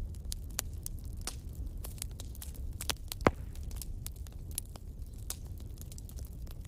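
Wood fire crackling: irregular sharp snaps and pops over a steady low rumble, with one loud pop just past three seconds in.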